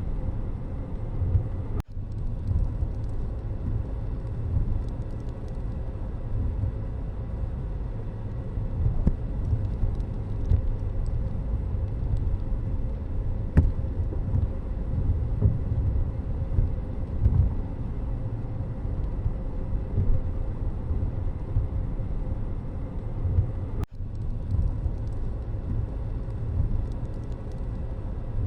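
Steady low rumble of a moving vehicle's road and engine noise, cutting out briefly twice.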